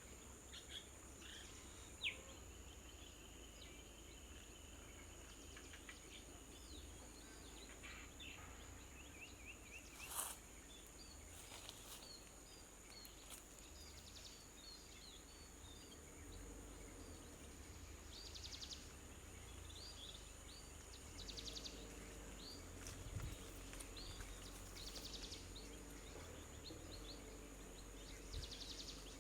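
Faint outdoor ambience: a steady high-pitched insect drone with many short, high bird chirps scattered throughout, and two sharp clicks.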